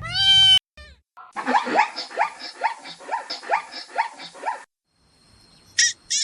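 Animal calls: a long pitched call that breaks off half a second in, then a rapid run of short falling calls, about three to four a second, then a few short high chirps near the end.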